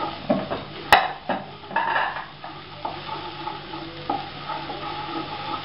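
Ginger garlic paste sizzling in hot oil in a nonstick kadai while a spatula stirs and scrapes it around the pan, with a sharp click about a second in.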